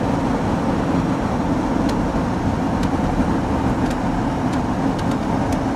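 Steady road and engine noise inside a moving car's cabin, with a few faint light clicks scattered through.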